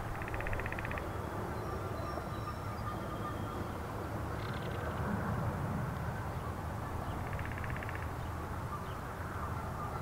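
Outdoor ambience: a steady low rumble, with three short raspy pulsing bird calls (at the start, near the middle and about three-quarters through) and a few faint thin whistles from small birds.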